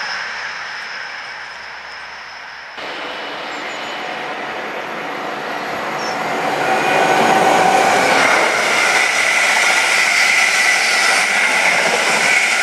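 Express passenger train approaching and passing at speed: wheel and rail noise builds over a few seconds, then holds loud and steady, with a steady high whine. Before that, the fading noise of an earlier train is cut off suddenly about three seconds in.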